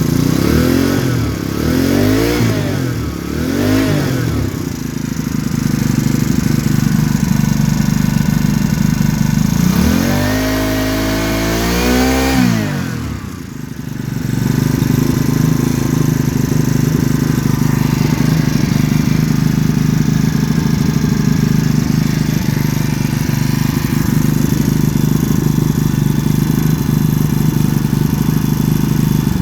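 Huasheng 142F four-stroke motorized-bicycle engine running: three short blips of the throttle in the first few seconds, then one longer rev held for about three seconds near the middle, then steady idling.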